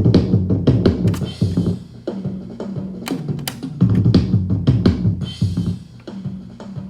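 Multitrack playback of a band song: a drum kit keeping a steady groove over a stepping bass line.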